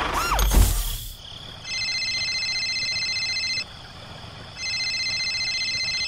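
An electronic phone ringtone trilling in two bursts of about two seconds each, a second apart. It follows a short gliding cartoon sound effect and a low thump in the first second.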